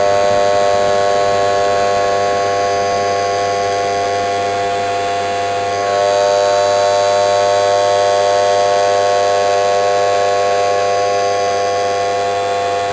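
Miele Professional WS 5105-C washing machine with its drum spinning at high speed: a steady, loud motor whine made of several held tones over a rushing noise, stepping up a little in loudness about six seconds in.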